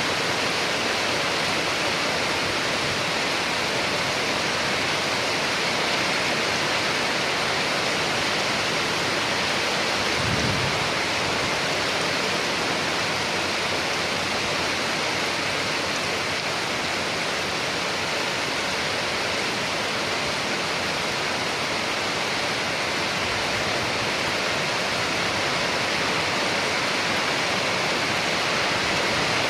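Steady rain falling, an even hiss with no let-up. About a third of the way in there is a brief low rumble.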